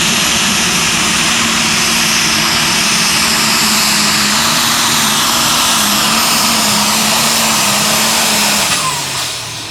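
Light super stock pulling tractor's engine running flat out under load during a pull, with a high steady whine over it. About nine seconds in, the throttle comes off and the engine winds down.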